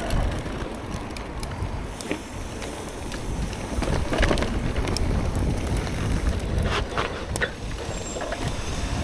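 Mountain bike being ridden on a trail, with wind rumbling on the microphone and rattles and clicks from the bike, a few sharper ones about four seconds in and again around seven seconds.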